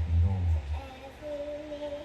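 A song with a voice singing: it holds one long note through the second second, with a loud, deep low sound in the first half-second.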